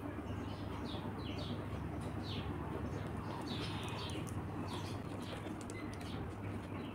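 Small birds chirping in short, quick, falling notes, scattered throughout, over a low steady hum.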